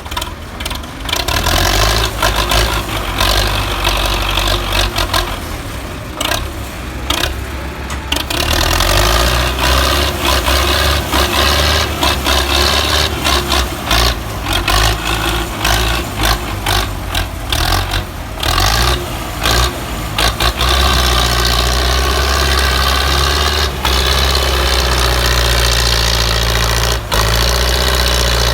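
Belarus 510 tractor's four-cylinder diesel engine running under load while pulling a heavily loaded sugarcane trailer, with a steady low engine note. Many short knocks break in during roughly the first twenty seconds, and the engine sound is steadier after that.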